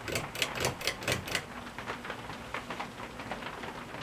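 A quick run of about six sharp ticks, roughly four a second, in the first second and a half, then fainter irregular tapping of rain outside.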